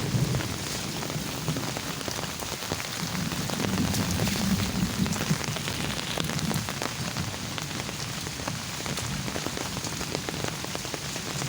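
Heavy rain falling steadily: a dense hiss dotted with the patter of many single drops.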